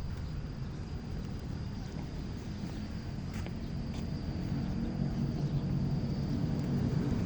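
A motor vehicle engine rumbling, getting louder over the last couple of seconds, with a faint steady high whine above it.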